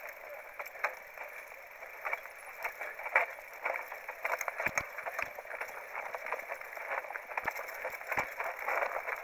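Mountain bike rolling down a rough trail: a steady rush of tyre and wind noise with frequent clicks and rattles from the bike and stones, and a few heavier knocks over bumps.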